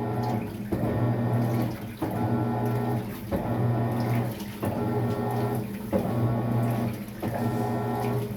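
Maytag MVWX655DW1 top-load washing machine agitating during a tub clean cycle: the motor hums in even back-and-forth strokes of about a second each, with short pauses between them as it reverses, over water sloshing in the tub.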